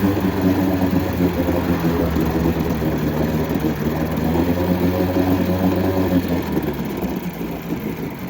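Mercury 7.5 hp two-stroke outboard running with its long-shaft lower unit in a jug of water, on its first run after 20 to 30 years in storage. It runs steadily and eases off and quietens near the end.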